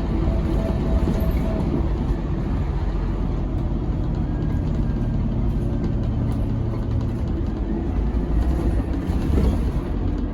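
Scania K270UB6 Omnilink tri-axle single-decker bus under way, heard on board: its engine and drivetrain make a steady low drone over road and body noise. A faint high whine fades out about a second and a half in.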